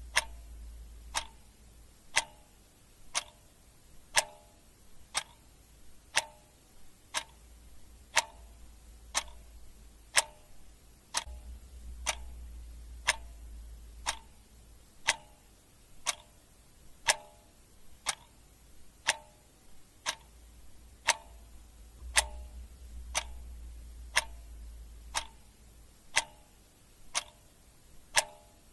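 Clock ticking steadily, about one tick a second, with a faint low rumble coming and going underneath.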